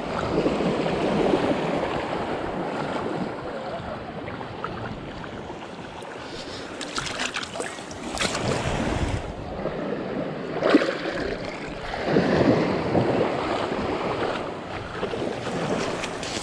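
Shallow ocean surf washing in and out, swelling several times, with water splashing close by and wind buffeting the microphone.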